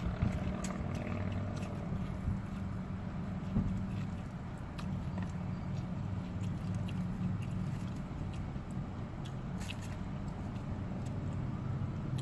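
Close-up chewing and crunching of crispy fried chicken, with scattered crisp crackles, over a steady low hum inside a car.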